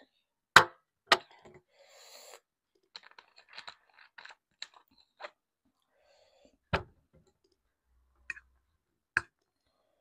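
Close-up mukbang eating sounds: chewing with scattered sharp clicks and knocks. The loudest come about half a second and a second in, and again near seven and nine seconds.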